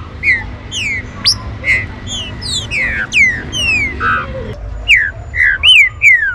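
Green-winged saltators (trinca-ferro) calling: a fast, overlapping run of short whistled notes, each sweeping sharply down in pitch, from more than one bird, over a low background rumble.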